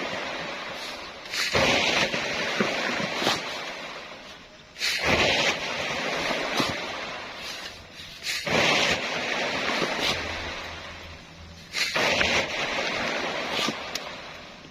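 Sand being shovelled by hand into a dump truck's bed: four shovelfuls, one about every three and a half seconds, each starting suddenly with a hiss and scrape of sand and then fading away.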